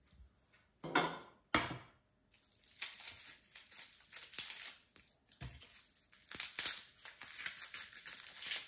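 Crinkling, rustling handling noise, after two short louder sounds about a second in and half a second later.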